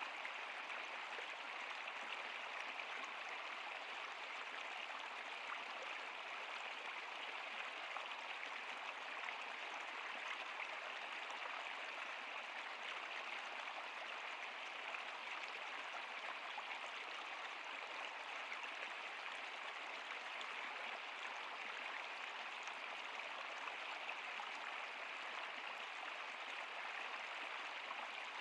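Running water of a river or stream, a steady, even rushing and babbling.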